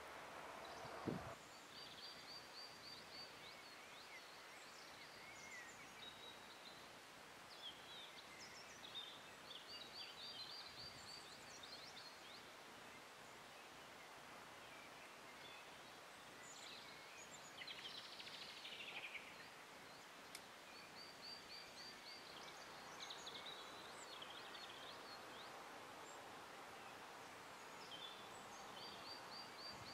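Faint outdoor ambience with small birds calling: short, high, rapid trills repeated every few seconds, and a longer falling call about eighteen seconds in. A single sharp click sounds about a second in.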